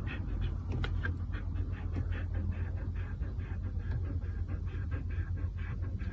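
Dog panting in quick, even breaths, about three or four a second, over a steady low hum.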